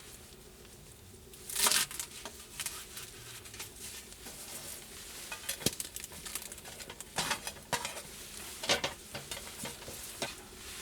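Cookware and utensils clattering in irregular short clicks and knocks while ingredients for sukiyaki are handled and arranged in a pan. The loudest clatters come about one and a half seconds in and again near the end.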